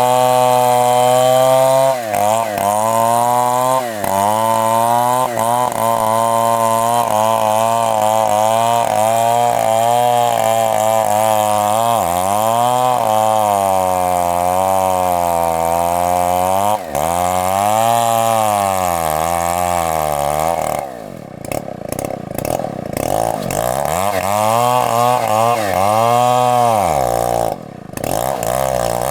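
Two-stroke chainsaw running under heavy load while cutting into a very thick tree trunk. Its engine note wavers up and down, and twice in the second half it drops sharply and bogs before picking back up: the saw is struggling in the huge cut.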